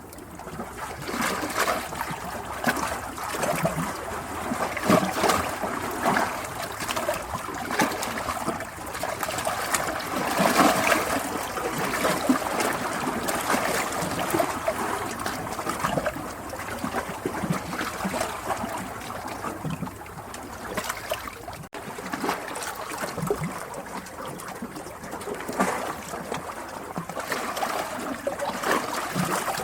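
Running water babbling and splashing, with an uneven, constantly shifting rush. There is a split-second dropout about two-thirds of the way through.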